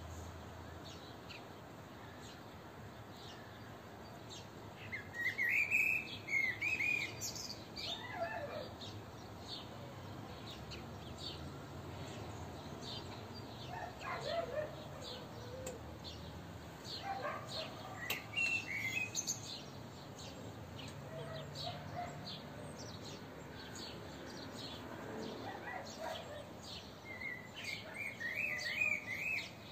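Birds calling and chirping: bursts of quick high chirps about five seconds in and again near the end, with scattered short calls and a few lower, falling calls in between.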